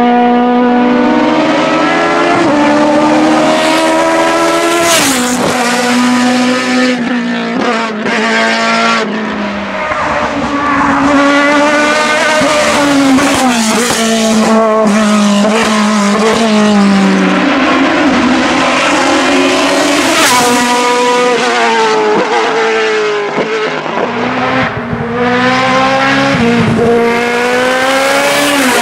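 Hillclimb race car engine at high revs, its pitch climbing and then dropping sharply again and again as it shifts gears and lifts off for corners.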